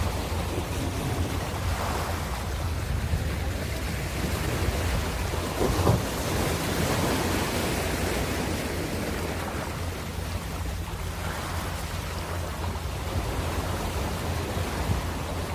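Ocean waves washing on a shore: a steady wash over a low rumble that swells and ebbs, with one louder wave break about six seconds in.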